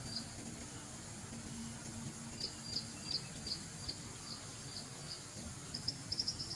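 An insect chirping in short high pulses at a steady pace of about three a second, breaking into a quick run of chirps near the end, over a faint steady hum.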